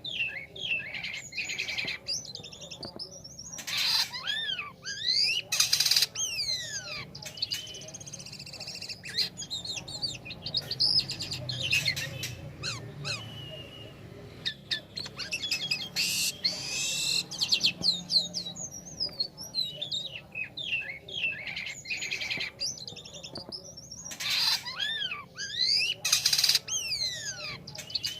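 Jalak kapas starling singing a continuous, varied song of rapid whistles, chirps and sweeping notes. A few harsh screeching notes break in, two near the start and two near the end.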